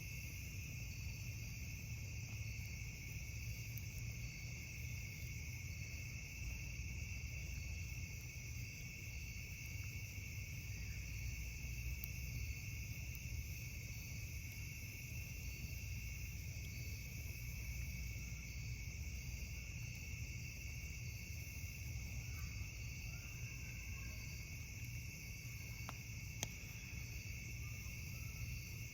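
Steady, unbroken chorus of night insects, crickets, chirring in high bands over a low steady rumble. A single sharp click sounds near the end.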